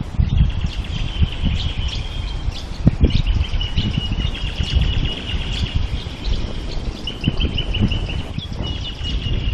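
Birds chirping in long, fast trilling runs from the trees along a river bank, over a low, uneven rumble.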